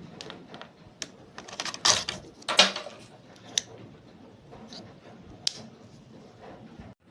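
Handling noise from small plastic objects: scattered clicks and rustling, with two louder scraping rustles about two and two and a half seconds in.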